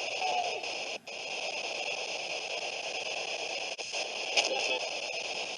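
Spirit box radio sweeping through stations: a steady hiss of radio static, broken by short dropouts about a second in and near four seconds, with brief snatches of broadcast voice.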